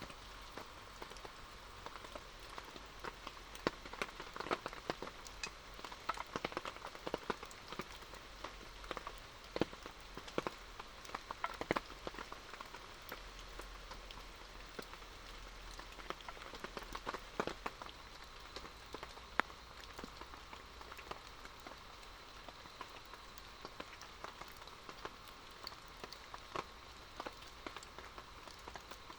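Rain falling steadily, with many separate drops landing in sharp irregular ticks on a nearby surface, thickest in the first half.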